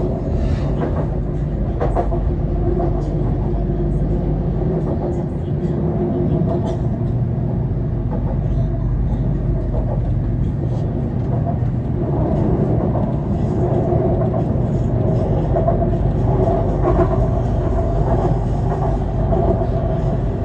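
BTS Skytrain EMU-B1 train running, a steady rumble with a low hum and occasional small clicks.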